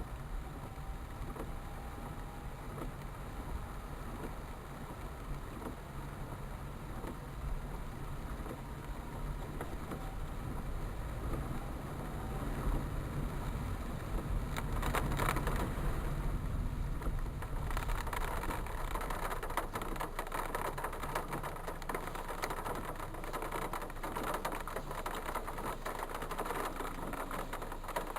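Steady vehicle and road noise with a low rumble, growing louder and brighter about halfway through.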